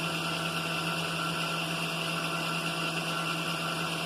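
Milling machine running with a boring head and bar in the spindle: a steady motor hum with a constant higher whine over it, unchanged throughout.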